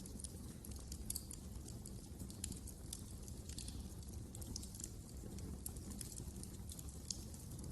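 Wood fire crackling: irregular sharp snaps and pops, several a second, over a low steady rumble.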